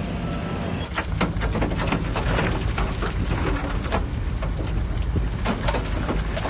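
Heavy earthmoving machinery running with a steady low diesel hum. From about a second in, dense irregular crunching and clattering of dirt and rocks being moved.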